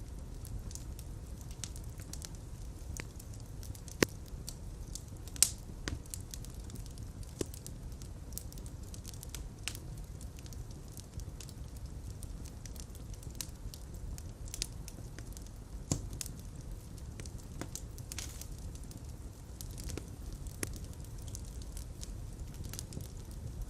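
Fire crackling in a fireplace: a steady low rumble of flames with irregular sharp pops and snaps, two louder pops about four and five seconds in.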